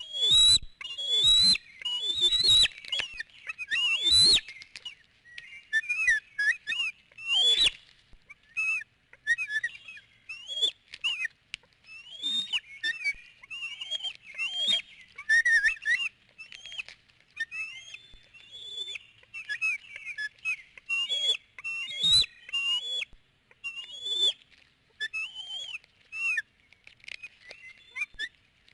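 Bald eagles calling: a long run of short, high chirping whistles, loudest over the first eight seconds or so, then somewhat softer and closer together.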